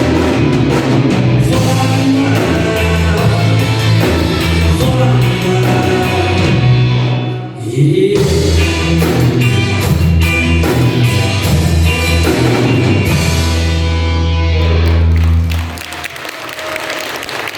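Live band playing the closing bars of a song, with bass, drums and voices, ending sharply about 16 seconds in, followed by applause.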